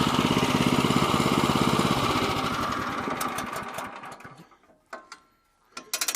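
Small gas engine of a Woodland Mills HM122 sawmill running steadily, then shut off about two seconds in and coasting down to a stop. This is followed by near silence with a couple of clicks, and a new mechanical whirring starts right at the end.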